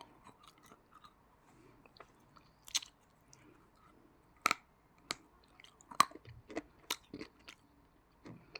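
Chewing and crunching of edible clay, yellow choy clay with a cocoa clay paste: scattered sharp crunches and wet mouth clicks, a second or so apart.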